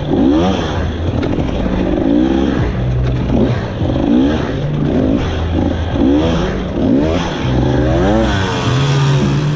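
Two-stroke hard enduro dirt bike engine revving in repeated bursts of throttle, its pitch rising with each burst about once a second.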